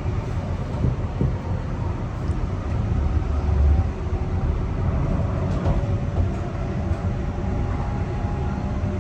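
Mariyung D-set electric train running, a steady low rumble with faint steady motor tones and a few light clicks.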